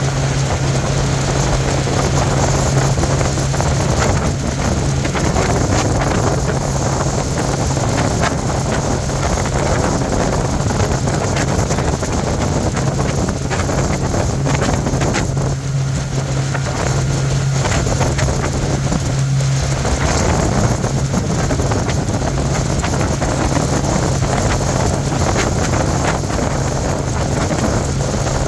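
Bayliner motorboat's engine running steadily underway, a constant low drone, with wind buffeting the microphone.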